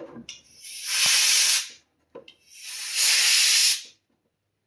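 Two long hissing blasts of pressurized spray, each swelling up and then cutting off sharply, the second starting about two seconds in.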